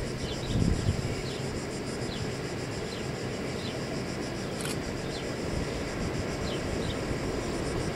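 Distant approaching train heard as a faint steady rumble, with a brief low thump in the first second. A short high chirp repeats over it roughly once a second.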